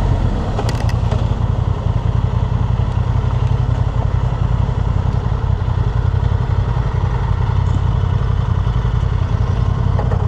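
2025 Honda Transalp's 755 cc parallel-twin engine running steadily at low revs, with a few light clicks about a second in.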